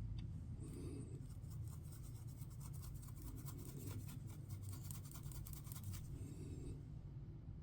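Faint, quick scratching and rubbing of a small brush working pigment into a resin mold, over a low steady hum.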